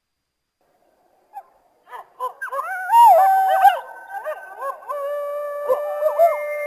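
Coyotes yipping and howling together, starting after about a second and a half of silence. A howl is held briefly about three seconds in, and near the end several voices hold overlapping howls over continuing yips.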